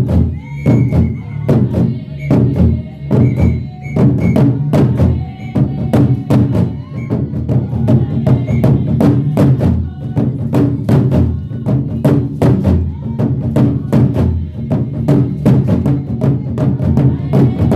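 Traditional music: steady, quick drumming with voices singing over it.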